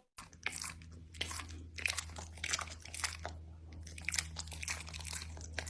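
Close-up crunchy chewing: many quick, irregular crunches of something being bitten and chewed, over a steady low hum.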